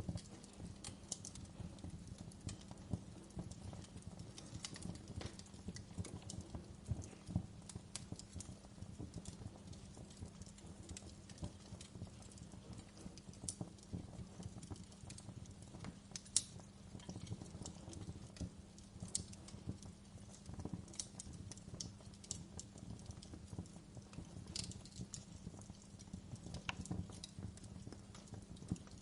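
Wood fire in a fireplace crackling steadily, with dense small crackles and occasional sharper pops. The loudest pop comes about halfway through.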